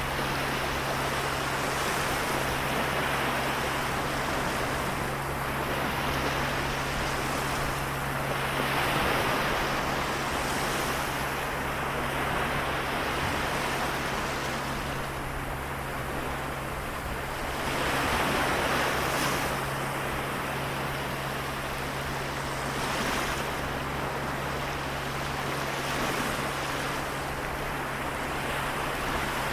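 Sea waves washing in, a continuous wash that swells with each surge every few seconds, over a steady low hum.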